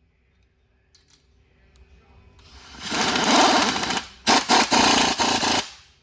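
Pneumatic air tool with a rapid hammering, typical of an air impact wrench, running in one long burst, stopping briefly, then firing in several short bursts before cutting off.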